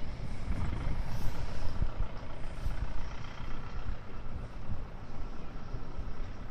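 Double set of Stadler Flirt 3 electric multiple units running along the station track: a low, uneven rumble with a faint steady whine above it.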